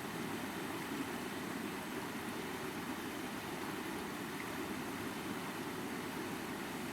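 Rushing stream water splashing over rocks, a steady even rush.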